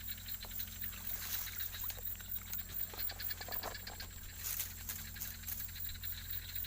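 Frogs calling in a chorus after rain: a fast, even pulsing trill that runs on steadily, with a few louder clicks over it.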